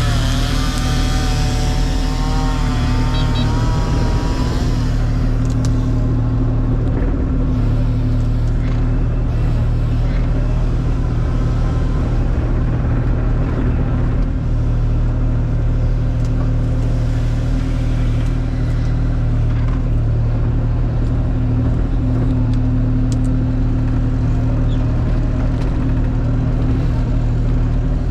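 Kubota KX040 mini excavator's diesel engine running steadily while it works. A wavering whine rides over it for the first four seconds or so.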